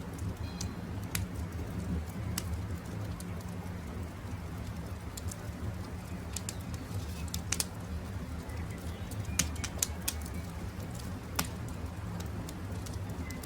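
Wood campfire crackling: scattered sharp pops and snaps, a few seconds apart, over a steady low rumble. Faint, short bird chirps come through now and then.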